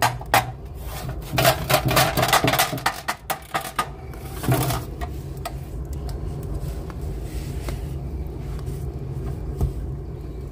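Wood fire in a fireplace crackling and popping, with a dense run of sharp cracks in the first four seconds and a louder crack about four and a half seconds in, then a steady low hum with a few scattered pops.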